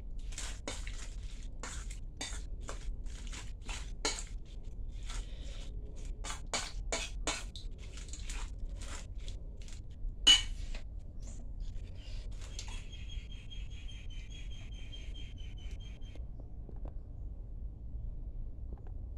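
Cutlery clinking and tapping against dishes in a quick irregular run, with one louder ringing clink about ten seconds in. Afterwards a high pulsing trill sounds for about three seconds.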